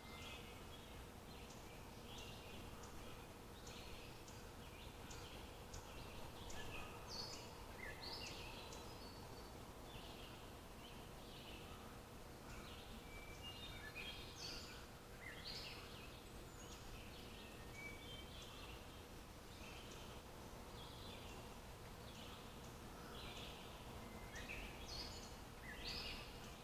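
Wild songbirds chirping and singing, many short high calls overlapping one another. Underneath runs a faint steady hiss and hum.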